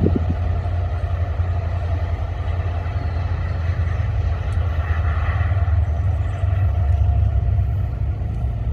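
Freight train rolling by with a steady low rumble and faint steady tones higher up.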